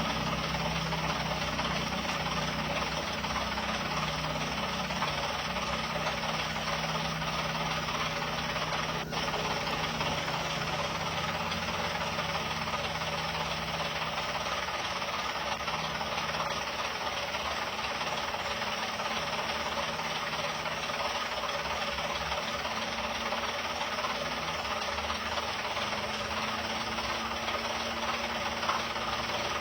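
Heavy construction-vehicle engine running steadily with a dense mechanical rattle, broken by a brief dip about nine seconds in.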